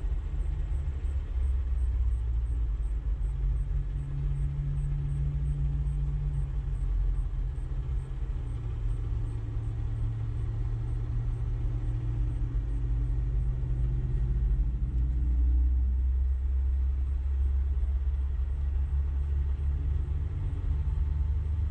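Steady low rumble of motor vehicle engines running, with engine tones that slowly shift in pitch.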